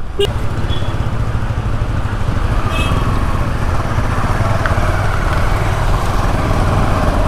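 Motorcycle engine running steadily at low speed, with road and wind noise.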